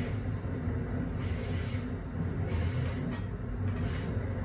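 Amtrak Northeast Regional train running along the track: a steady low rumble of wheels on rail, with a higher hiss that rises and falls roughly every second.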